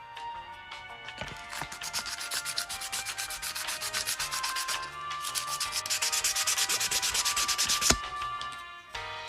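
Knife blade scraped in rapid, even back-and-forth strokes on an abrasive sharpening surface, starting about a second and a half in, with a sharp knock near the end.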